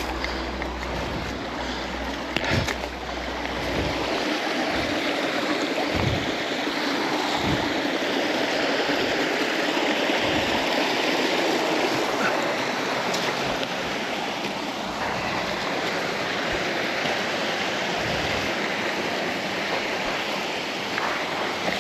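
Steady rush of flowing creek water, a stream running high after rain, with a few soft low thumps in the first several seconds.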